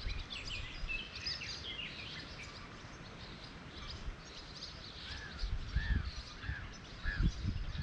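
Small birds chirping, with quick high notes in the first couple of seconds; from about five seconds in a bird repeats a short rising-and-falling call about five times, roughly twice a second. A few low thumps sound under the birdsong.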